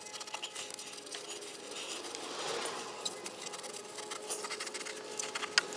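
Light scratching, rubbing and small clicks of hands working parts in an engine bay, over a faint steady hum.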